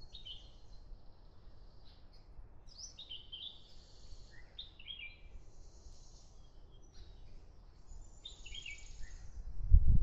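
Birds chirping in short runs of quick notes, some stepping down in pitch, over faint background noise. Near the end a loud low rumble comes in.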